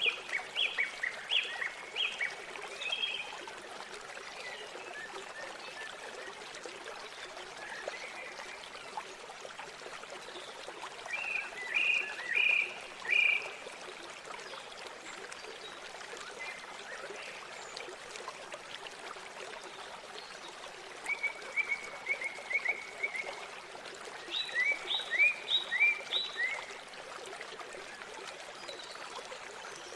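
Steady rush of river water with a bird calling over it in short runs of four or five quick, high chirps, about four times, one run a fast even trill.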